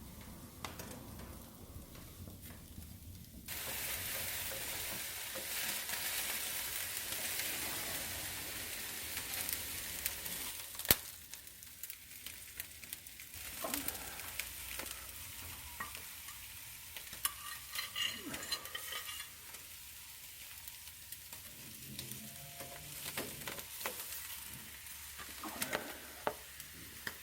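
Pork neck sizzling over charcoal embers in a fireplace: a hiss that starts suddenly a few seconds in, stays loud for several seconds and then eases, with scattered pops and crackles.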